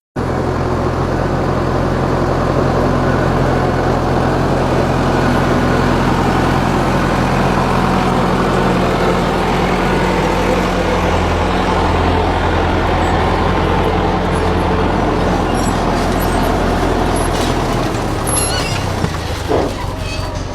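Tractor engine running steadily at working speed while cultivating a field, a deep even drone whose note eases and shifts about two seconds before the end.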